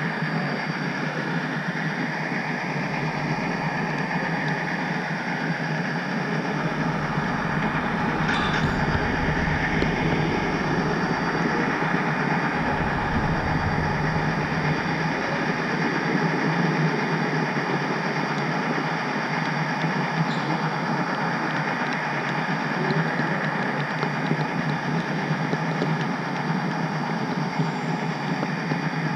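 HO scale model train running on the layout's track: a steady rolling rumble of wheels and running gear, with a few faint clicks.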